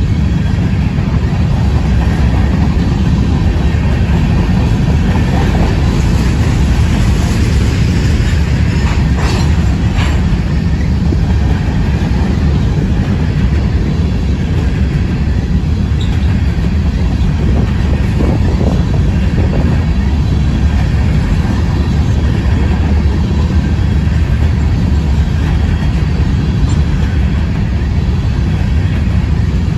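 Covered hopper cars of a CSX grain train rolling steadily past close by: a loud, even rumble of steel wheels on the rails.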